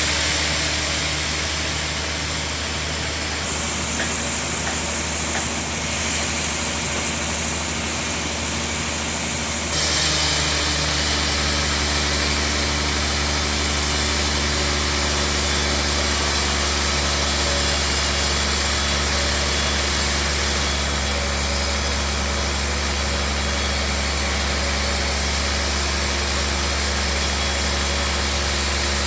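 Sawmill bandsaw machinery running steadily with a low hum. About ten seconds in the sound steps up, a little louder and with more hiss, and then holds steady.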